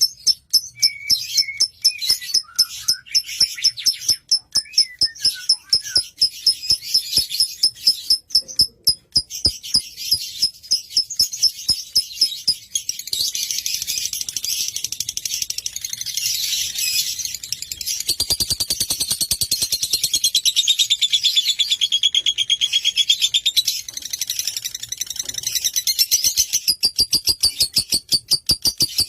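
Lovebird calling: sharp high chirps repeated about four times a second, which about halfway through run together into a dense, continuous high-pitched chatter.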